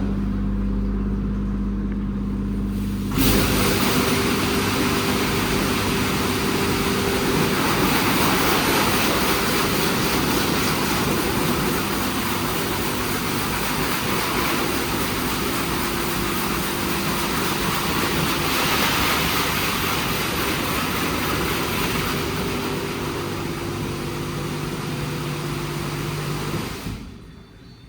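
WashTec SoftCare² Pro rollover car wash at work. A steady machine hum with a few low tones, then about three seconds in a sudden loud, even hiss of spraying water sets in over the hum and runs until it cuts off shortly before the end.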